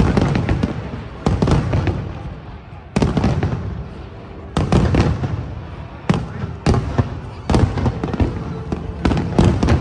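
Aerial fireworks shells bursting, a run of sharp booms about one every second or less, each followed by a low rumble that dies away.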